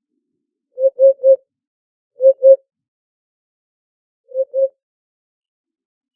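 Eurasian hoopoe singing its low, hollow hoots near 500 Hz, in groups of two or three, with short silent gaps between the groups: three hoots about a second in, two a little past two seconds, and a softer pair a little past four seconds.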